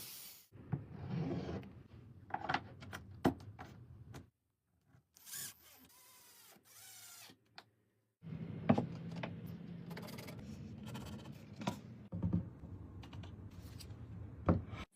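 Woodworking handling sounds in short clips that start and stop abruptly: sharp knocks and clicks over rubbing and scraping.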